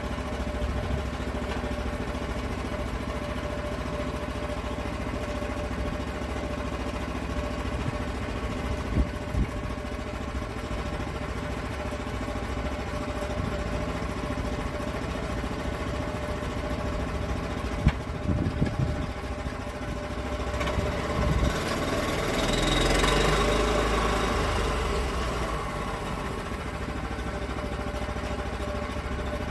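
Small gasoline engine running steadily, with a few short knocks partway through and a louder swell of noise that builds and fades about three quarters of the way in.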